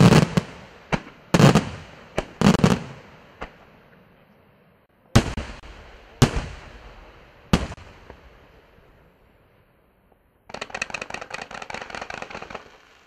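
Fireworks display: aerial shells bursting with sharp bangs that echo and fade, several close together in the first few seconds and three more about a second apart in the middle. Near the end a dense, rapid crackling sets in.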